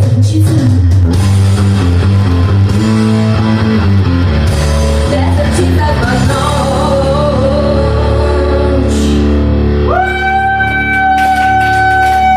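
Rock song with guitar, bass and drums and a singing voice, ending on a long held note that starts about ten seconds in.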